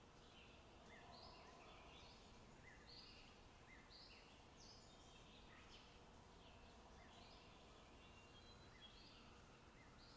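Faint forest ambience with several songbirds chirping over and over, short high calls overlapping one another, above a soft steady background hiss.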